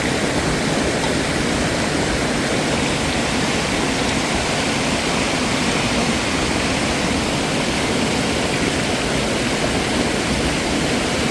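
Loud, steady rush of fast-flowing mountain water.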